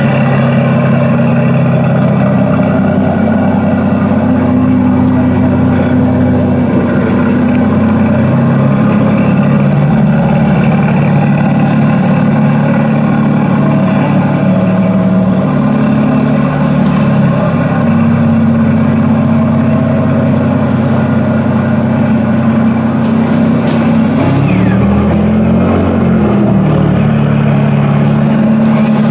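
Aston Martin DBS Superleggera's twin-turbo V12 running at idle, its note shifting a few times, with a brief dip and rise in engine speed near the end.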